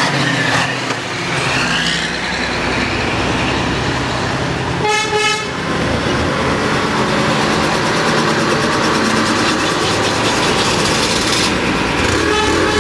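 Vintage trucks running as they pass, with one short horn blast about five seconds in.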